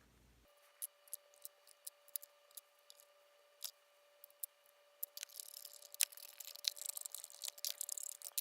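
Screws being driven back into a robot vacuum's plastic housing with a hand screwdriver: scattered light clicks at first, then a denser run of quick scratchy ticks from about five seconds in.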